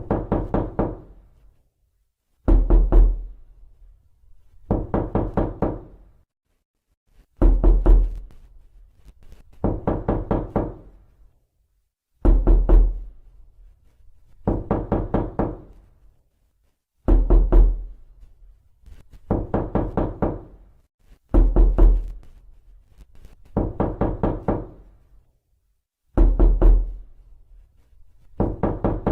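Knocking on a door: quick bursts of about five knocks, repeated every two and a half seconds or so with short silences between them.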